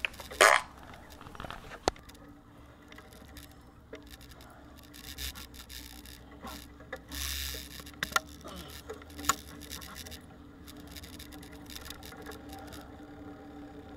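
Bicycle riding noise: uneven rubbing and scraping with scattered sharp clicks and knocks, the loudest knock about half a second in and a brief noisy burst about seven seconds in.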